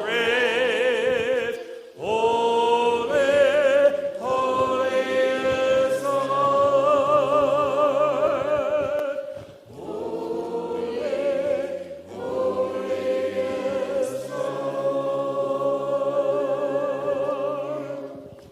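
Choir singing a slow sacred anthem in long held phrases with vibrato, over steady low sustained accompaniment notes. There are short breaths between phrases, and the piece closes on a held chord that fades just before the end.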